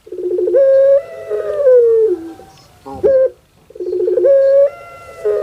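Puter pelung dove (Streptopelia risoria) giving its long coo twice. Each call opens with a quick stutter of notes, then draws out into a long held note that drops in pitch at the end, with a short upswept note between the two calls.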